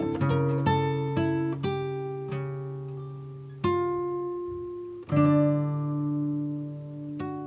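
Background music: plucked guitar notes and chords, ringing and dying away.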